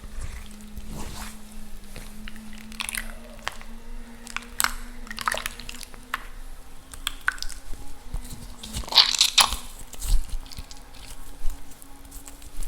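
Balls of chalk soaking in water, crackling and popping irregularly as the water gets into them, with a burst of louder pops about three quarters of the way through. A steady low hum runs underneath.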